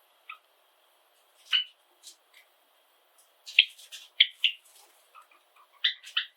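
Pet Java sparrows giving short, high chirps. The chirps are scattered at first, then come in quick runs of several notes from about halfway through.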